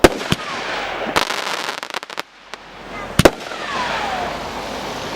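Fireworks going off: a loud aerial-shell bang right at the start and another about three seconds in, with a cluster of crackles about a second in, a falling whistle after the second bang, and a steady crackling hiss between.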